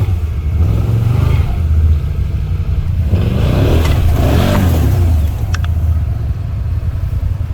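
Big-bore 1000 cc ATV engine running under load, with a louder stretch of revving about three seconds in. Two sharp knocks come about five and a half seconds in.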